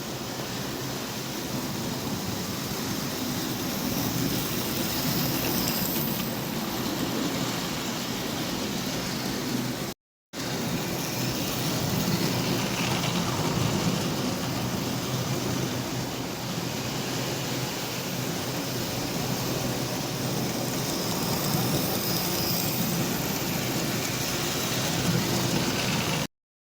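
Model railway trains running on the track with wagons in tow, giving a steady running noise of the small motors and rolling wheels. The sound cuts out briefly twice, about ten seconds in and just before the end.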